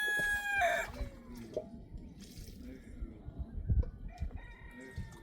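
A rooster crowing: one long crow ends about a second in, and a second, fainter crow starts a little past four seconds and runs on past the end.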